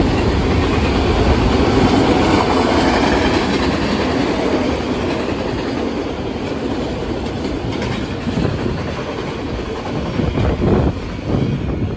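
Freight train rolling past, steel wheels running on the rails in a steady, loud rumble that eases off somewhat in the second half and turns uneven near the end as the train goes by.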